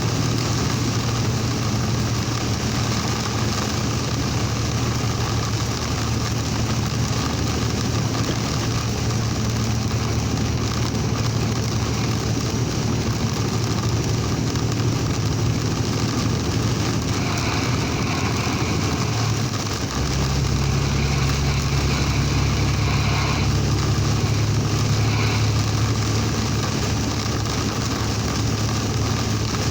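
Truck engine running steadily while driving, heard inside the cab over a constant hiss of road noise. About two-thirds of the way through, the engine's low note changes and then holds steady again.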